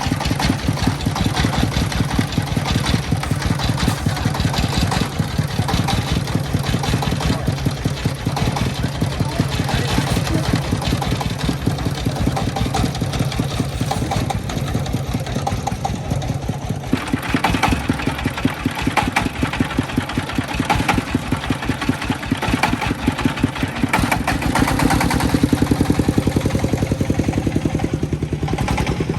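Công nông farm truck's single-cylinder diesel engine running steadily with a fast, even chug. Metallic clattering from the vehicle grows stronger from about halfway through.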